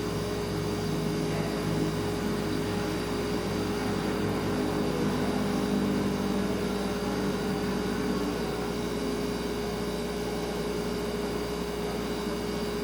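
Refrigerator running: a steady hum carrying one clear held tone, over a low rumble that wavers a little.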